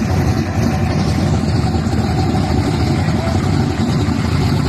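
Old Chevrolet Caprice donk's V8 engine running at low speed with a steady, loud exhaust rumble as the car creeps forward.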